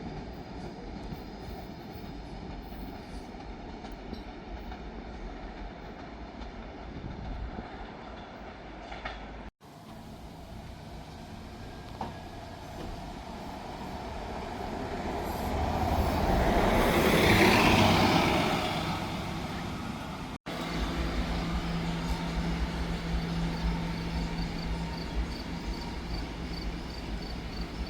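Staten Island Railway train passing by: its noise builds over several seconds to its loudest a little past the middle, then fades. Before and after it is a steady rumble, and the sound drops out abruptly twice where the footage is cut.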